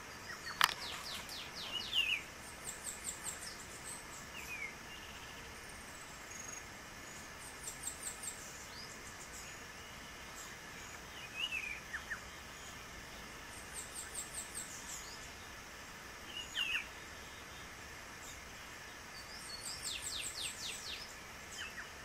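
Birds calling in the trees: every few seconds a quick run of high, thin notes, with shorter downward-sliding chirps between the runs. A sharp click right at the start is the loudest sound.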